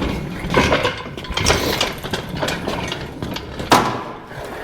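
Rattling and clanking of a shop engine hoist (cherry picker) being worked with an engine hanging from it, with a sharp knock a little before the end.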